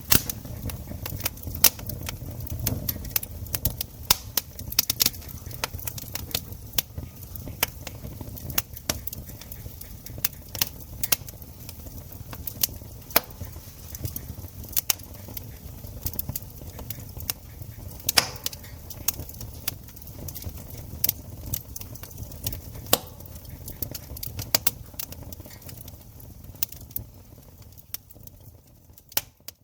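Campfire crackling: irregular sharp pops and snaps of burning wood over a low rumble of the flames. It cuts out for a moment just before the end.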